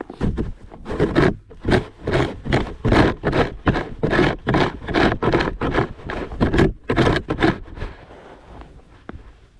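Snow shovel scraping over driveway pavement in quick repeated strokes, about two or three a second, easing off about eight seconds in.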